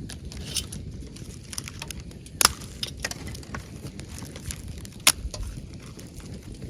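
Wood campfire burning in a fire-pit stand, crackling with a steady run of small snaps and two louder sharp pops, about two and a half and five seconds in.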